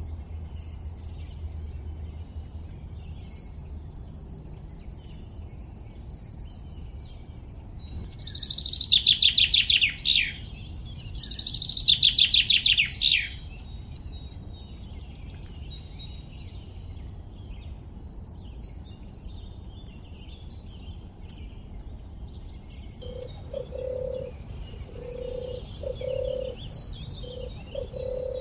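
Birdsong: many small birds chirping, with two loud, rapid trills that fall in pitch, the first about eight seconds in and the second about twelve seconds in. A series of low, repeated notes starts near the end.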